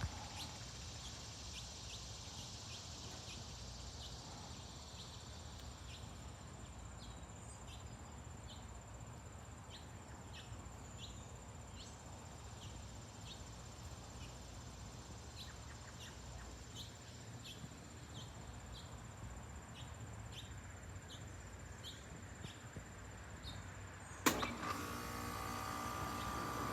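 Faint outdoor ambience: a low steady rumble under short high chirps of insects or birds, repeating about once or twice a second, with a thin high steady tone. About 24 seconds in there is a sharp click, after which a louder steady noise with a hum sets in.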